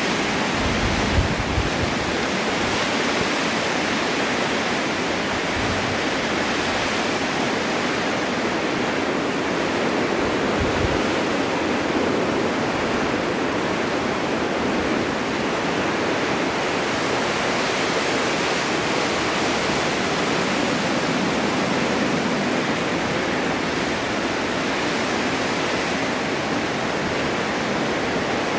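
Winter snowstorm wind, a steady even rush with a few brief low buffets about a second in and again around the middle.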